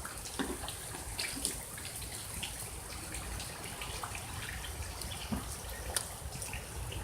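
Water trickling, with irregular drips and small splashes falling several times a second.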